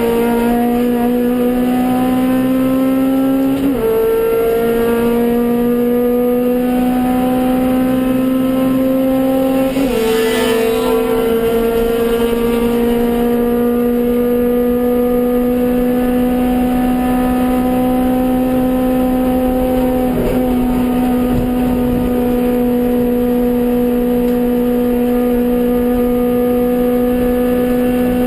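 Suzuki Swift GTi race car's G13B 1.3-litre four-cylinder engine pulling hard at high revs under full throttle. Two quick upshifts come at about 4 and 10 seconds in, then a long, slowly rising pull in the higher gear.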